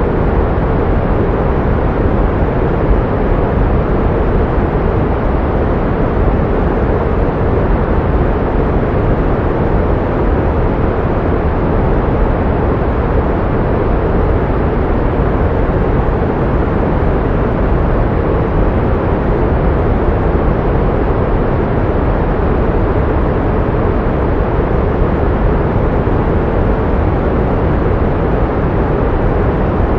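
Steady pink noise: an unbroken, even hiss weighted toward the low end, constant in level throughout.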